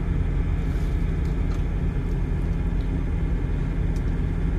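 Semi-truck's diesel engine running, heard from inside the cab as a steady low rumble.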